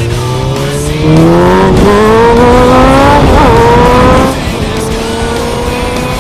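Motorcycle engine accelerating through the gears: the pitch climbs, drops back at a shift, then climbs again, with a second shift about three seconds in. It is loudest in the middle, then settles to a quieter, slowly rising run.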